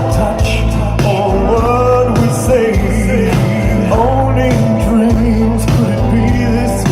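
Rock band music with a male lead voice singing a drawn-out melody over a steady bass line.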